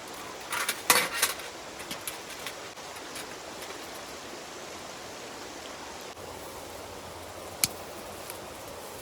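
A brief clatter of metal camp cookware or utensils, several quick knocks and clinks about a second in, then one sharp click near the end, over a steady outdoor hiss.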